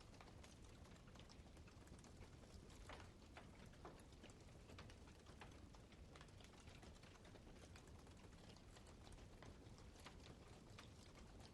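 Campfire crackling faintly, with irregular small snaps and pops of burning wood.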